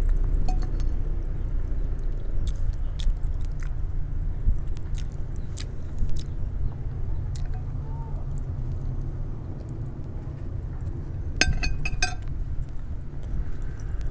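Close-up chewing and small mouth clicks of a person eating a mouthful of instant noodles over a low steady hum. About eleven and a half seconds in, a metal spoon and fork clink several times against a glass plate as they are set down.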